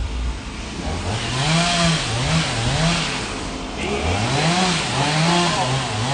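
Two-stroke chainsaw cutting through tree limbs: the engine revs up about a second in and its pitch rises and dips as the chain bites into the wood, drops off briefly, then revs and cuts again before easing off near the end.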